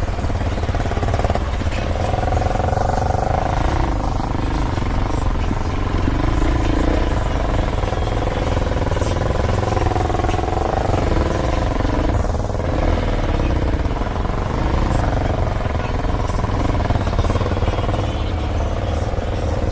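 Dirt bike engine running under way on a trail ride, its pitch rising and falling with the throttle over a steady low rumble.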